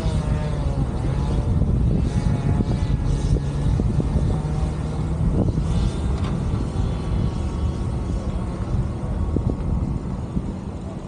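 Steady low rumble of a vehicle driving on a road, with a faint engine hum underneath.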